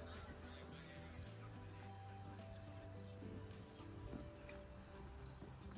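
Faint, steady chirring of crickets, with a few faint thin tones underneath.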